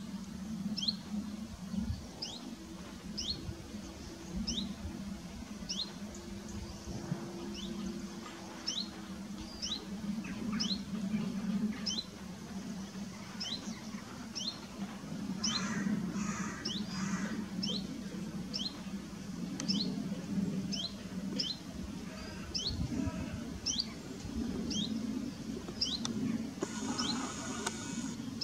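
Small bird calling over and over, a short high chirp a little more than once a second, with three harsh calls from a larger bird about halfway through and a longer harsh call near the end.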